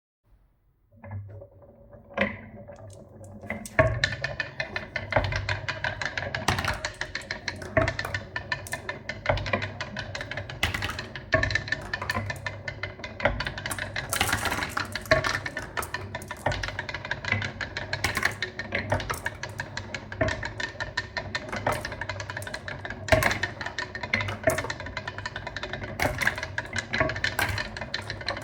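Many marbles rolling and clacking along a plastic marble run track: dense, irregular clicks and knocks that start in earnest about four seconds in, over a steady hum underneath.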